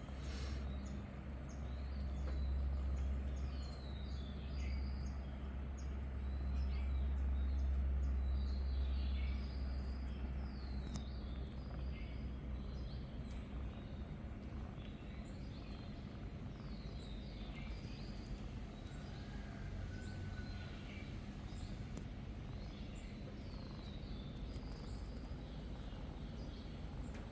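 Background ambience of small birds chirping in short, repeated high calls, over a low rumble that is heavier in the first half and eases off after it.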